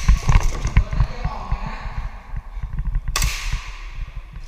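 A single sharp pop of an airsoft pistol shot about three seconds in, trailing off briefly, over a run of dull low knocks.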